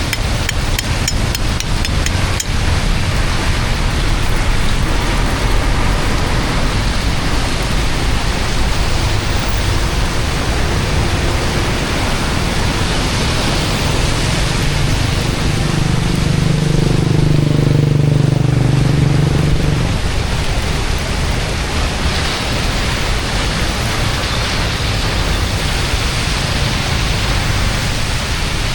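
Steady rushing of rain and flowing floodwater. A few small clicks sound in the first couple of seconds, and a low hum swells from about 16 to 20 seconds in.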